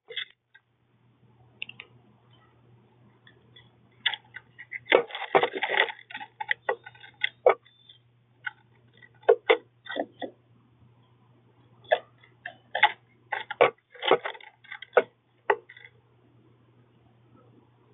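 Birds at a feeder pecking and cracking seeds: irregular sharp taps and clicks, some in quick clusters, over a faint steady low hum.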